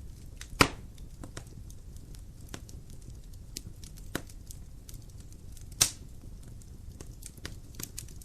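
Dry firewood burning in a fireplace: a steady low rumble of the flames with frequent small crackles, and two loud sharp pops, one about half a second in and one near six seconds in.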